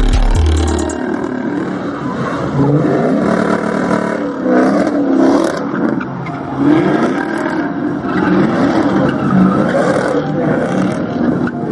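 Car engines revving over and over, the pitch climbing and dropping repeatedly. A heavy music bass line stops about a second in.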